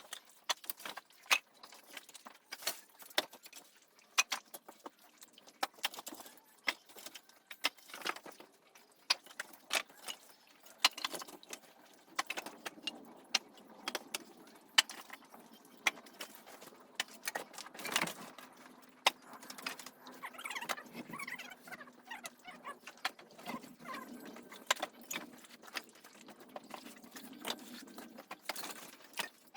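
Irregular clattering and knocking of split firewood being handled, several sharp clacks a second of varying strength.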